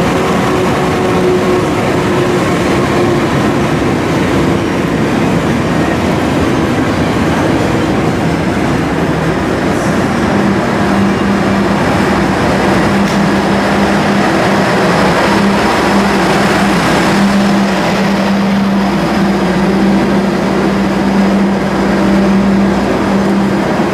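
Diesel-hauled passenger train rolling slowly alongside the platform and coming to a stand. From about ten seconds in, a steady low hum from the train's diesel engines holds on while it stands.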